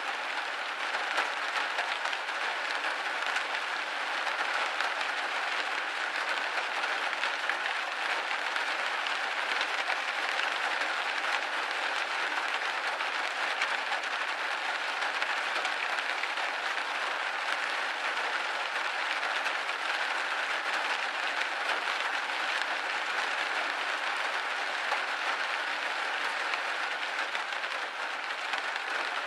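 Steady rain drumming on a windowpane: a dense, even patter of drops with no lower tones.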